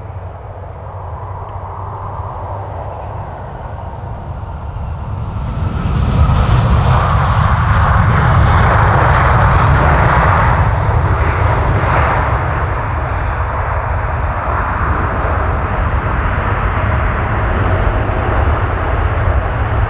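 Jet airliner engines rumbling close by, growing much louder about six seconds in and staying loud as the aircraft passes.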